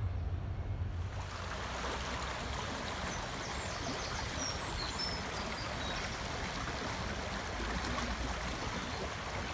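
Steady rushing hiss of machinery noise from an industrial estate, setting in about a second in. A few faint, brief high chirps come about three to five seconds in.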